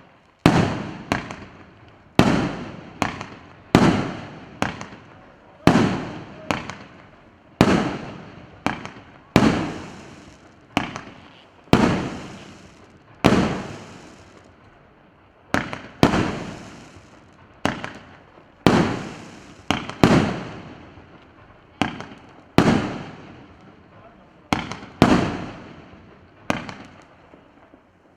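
Fireworks battery (cake) firing shot after shot, about one a second, each a sharp bang followed by a short fading tail.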